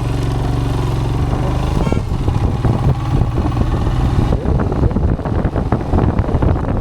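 Royal Enfield Himalayan's single-cylinder engine running steadily under way. From about two seconds in, it is increasingly covered by rough, gusty wind buffeting on the microphone.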